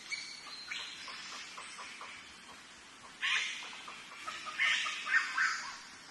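Chickens clucking, a run of short clucks with louder calls about three seconds in and again near five seconds.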